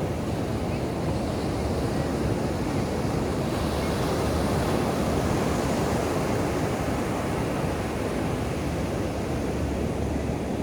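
Ocean surf breaking and washing up a sandy beach: a steady wash that swells a little around the middle.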